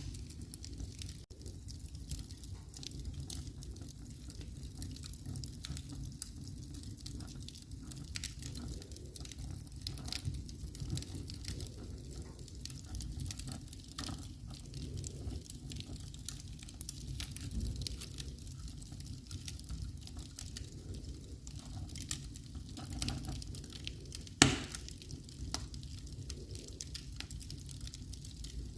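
Wood fire in a fireplace burning steadily with a low rumble and a run of small crackles and pops, and one much louder crack about three-quarters of the way through.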